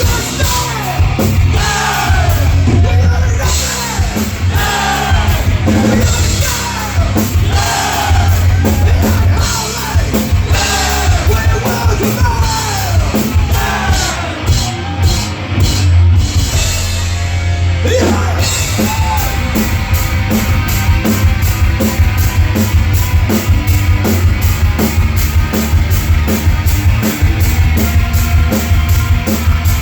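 Live rock band playing loud, with shouted singing over guitars, bass and drums. About two-thirds of the way in the vocals stop and the band goes on instrumentally over a fast, steady drum beat.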